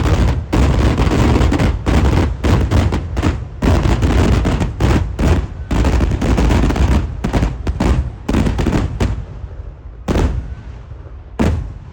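Kerala temple-festival fireworks (vedikkettu): a dense, rapid barrage of loud firecracker explosions, the bangs overlapping one another. The barrage thins out about nine seconds in, then two last single bangs go off and the sound dies away.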